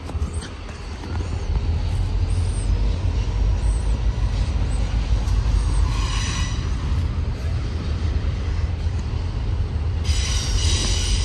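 Train rolling past on the rails, a steady low rumble with high-pitched wheel squeal about six seconds in and again from near the end.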